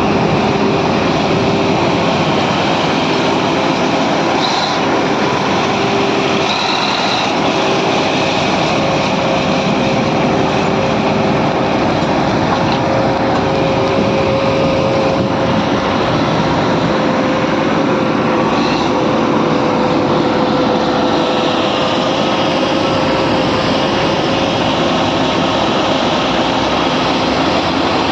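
BEML D80 crawler bulldozer running, a loud constant machine noise with a steady whining tone under it and a few brief high squeaks.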